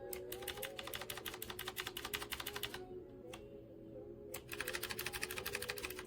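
Rapid typing on a mechanical keyboard with round typewriter-style keycaps: two fast runs of clacking keystrokes with a short pause and a couple of single key presses between them. Background music plays underneath.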